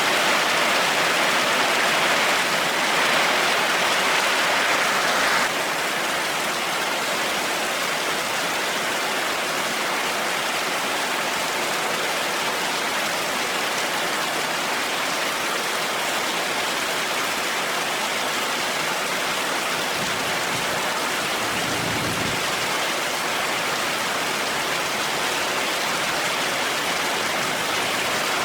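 Heavy rain pouring steadily, an even hiss that steps down a little about five seconds in. A brief low rumble comes through the rain later on.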